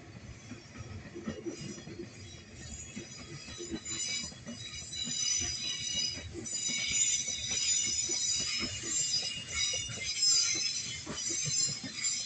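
Freight train rolling slowly, its wheels squealing on the rails in several high steady tones that grow louder about five seconds in, over irregular low clanks from the wagons.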